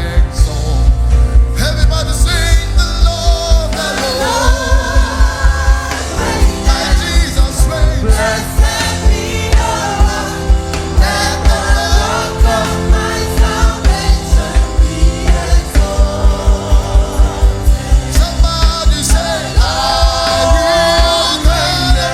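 Gospel worship music played live: singing voices over a band with a steady, fast drum beat.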